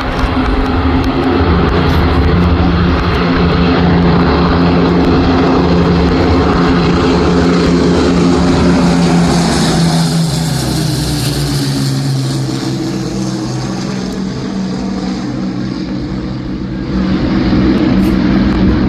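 Piston-engined WWII warbird passing with propellers and engines running hard; the engine note drops in pitch about halfway through as it goes past. The level rises again near the end as more engine noise comes in.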